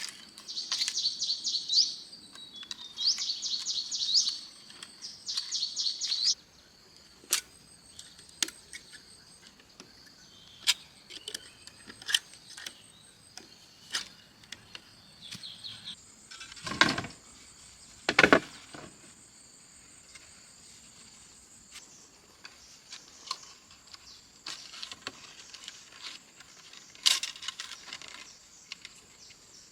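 Outdoor insect sounds: three trilled calls in the first six seconds, then a steady high insect whine. Scattered clicks run through it, with two louder knocks a little past halfway.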